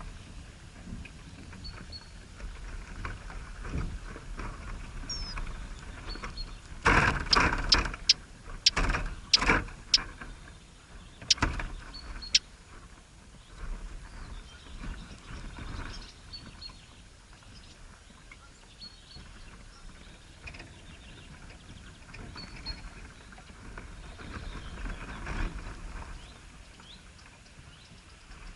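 Faint short high chirps from birds, scattered through, over a low rumble. A burst of sharp knocks and rustling about a quarter of the way in lasts several seconds.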